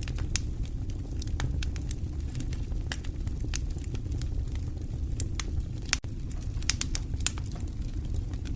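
Fireplace fire crackling: irregular sharp pops and snaps over a steady low rumble of the flames, with a split-second dropout about six seconds in.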